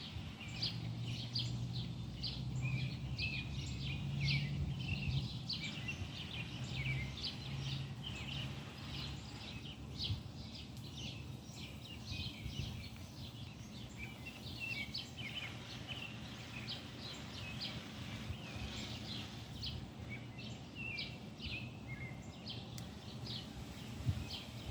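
Several birds chirping and singing in quick, overlapping calls, with a low steady hum underneath that is strongest in the first half.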